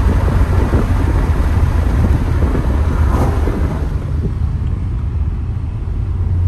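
BMW E90 M3's V8 with a custom exhaust, heard from inside the cabin while driving, over a heavy low rumble of road noise. It is louder and rougher for the first three or four seconds, then settles to a quieter, steady drone.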